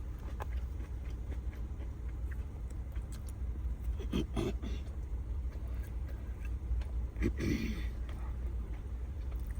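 A person hiccuping twice, about four and seven seconds in, set off by very spicy food, over a steady low rumble.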